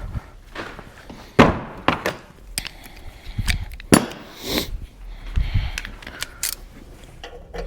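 Metal hand tools clinking and knocking: a series of sharp clanks, the loudest about a second and a half in and again about four seconds in.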